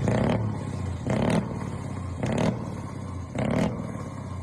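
Vehicle engine running under a steady low hum, surging in short regular bursts of revs about once a second.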